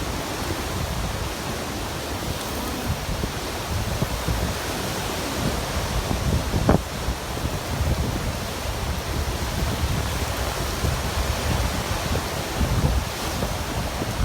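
Wind buffeting the microphone in gusts over a steady rush of surf, with one short knock about seven seconds in.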